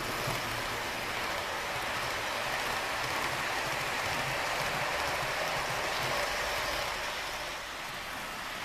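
Model train of a Bachmann SD40-2 locomotive and its cars rolling along the layout's track: a steady rushing hiss that swells a little and then eases off near the end.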